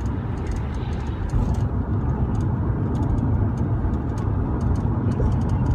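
Steady low rumble of a car, heard from inside the cabin, with scattered faint clicks.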